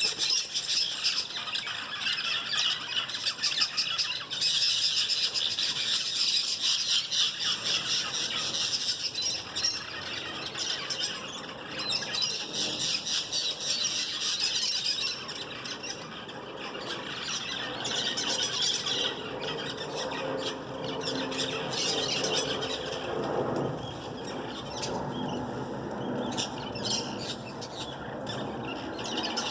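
A flock of birds calling over one another in a continuous, shrill chatter of squawks and squeals, busiest in the first half.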